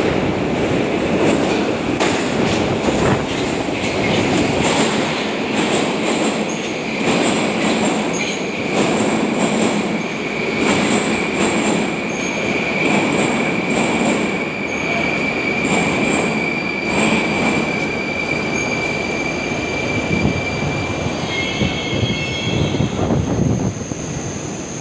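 Metro train running on the rails, heard from inside the carriage: wheels clatter over the rail joints, with a steady high whine that sets in about a quarter of the way through. Near the end several high squealing tones sound together as it brakes, then the noise drops as the train comes to a stop.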